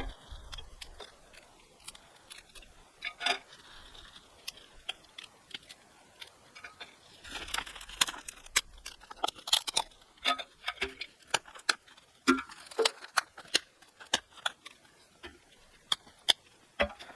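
Irregular run of sharp clicks and light knocks, as of small hard objects being handled, with a few brief rustles.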